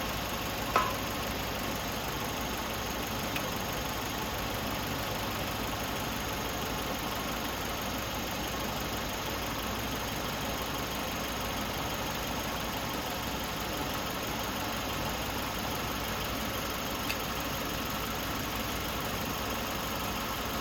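A 2012 Hyundai Elantra Touring's four-cylinder engine idling steadily with the air conditioning running on full. A short click about a second in.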